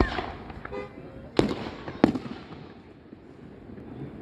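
Aerial fireworks bursting: three sharp bangs, one at the start and two louder ones about a second and a half and two seconds in, each echoing briefly, with crackling between them.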